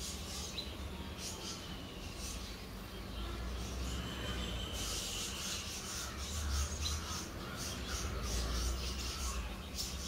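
Outdoor background of faint bird calls over a low steady rumble.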